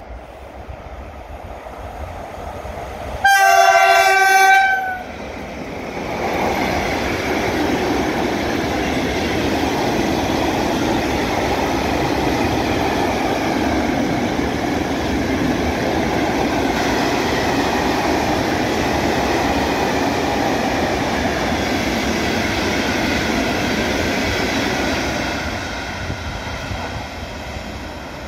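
A passing freight train: the locomotive sounds its horn once, a chord of steady tones about a second and a half long. Then a long rake of loaded hopper wagons rolls by with a steady rumble and wheel clatter that eases off near the end.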